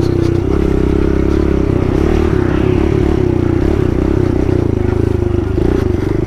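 Kawasaki KLX110 pit bike's small single-cylinder four-stroke engine running steadily under way, its pitch shifting slightly with the throttle.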